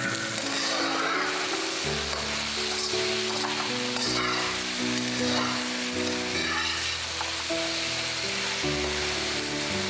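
Cornstarch-coated Chinese eggplant pieces sizzling steadily in a hot wok while a metal spatula stirs them, at the end of the initial charring stage. Background music plays along.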